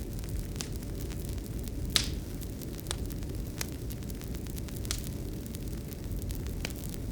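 Wood fire crackling: irregular pops and snaps over a low steady rumble, the sharpest pop about two seconds in.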